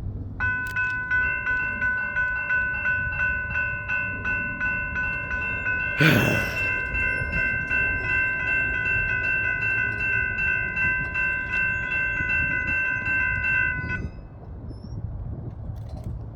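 Railroad level-crossing warning bell ringing, a steady clanging tone repeating about twice a second, which stops abruptly near the end. A loud, sudden noise breaks in about halfway through, over a low rumble.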